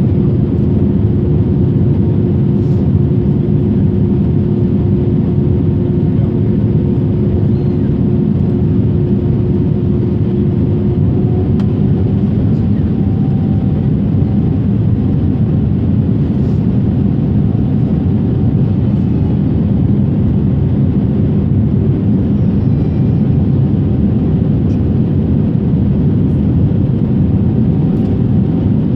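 Airliner cabin noise: a steady, loud rumble of engines and airflow with a constant hum whose pitch shifts slightly higher about twelve seconds in.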